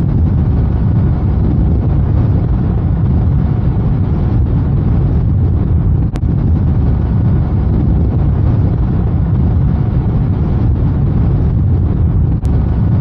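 Steady low rush of wind on the microphone from an electric Zero SR/F motorcycle riding at road speed, with no engine note. Two brief clicks, about six seconds in and near the end.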